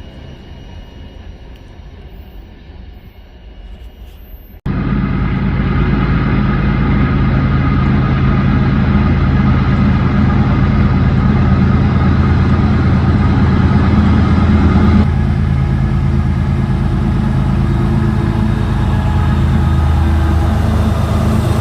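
Diesel freight train running past close by: a loud, steady engine drone mixed with wheel and rail noise. It comes in abruptly about five seconds in, after a quieter low rumble.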